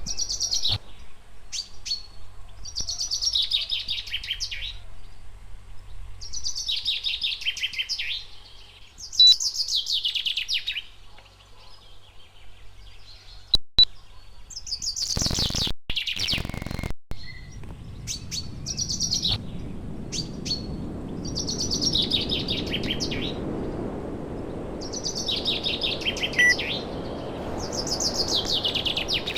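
A songbird singing the same short falling chirpy phrase over and over, about once every two seconds. A few sharp clicks come around the middle, and a steady rushing noise rises underneath in the second half.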